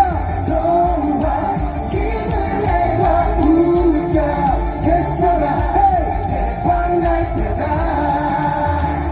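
Live band music for an upbeat pop song, a sung melody line over a steady bass beat.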